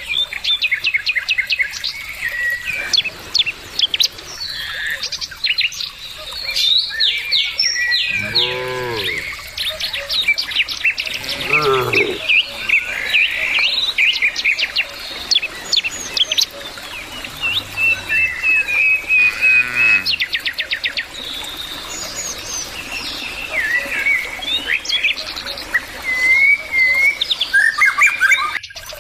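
Small birds chirping and twittering without a break, with cattle mooing three times in the middle, two long low moos close together and a shorter one a few seconds later.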